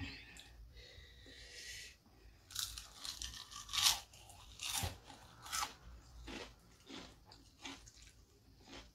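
Close-up eating sounds of crispy fried chicken in chili sambal being bitten and chewed with loud crunches. The crunching starts about two and a half seconds in and is loudest about four seconds in, then carries on as smaller chewing crunches.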